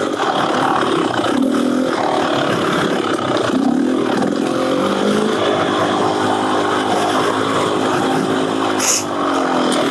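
Beta Xtrainer 300 two-stroke dirt bike engine, breathing through an FMF Gnarly exhaust, running under riding load, its revs rising and falling again and again. A brief sharp click about nine seconds in.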